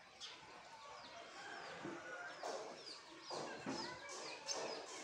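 Small birds chirping in a tree: a string of short, quick chirps, each falling in pitch, repeated throughout, with voices heard faintly in the background partway through.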